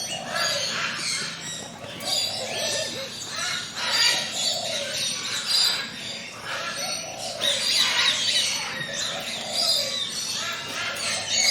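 A dense chorus of forest birds chirping and trilling, with a lower arched call repeating about every two seconds under the higher song.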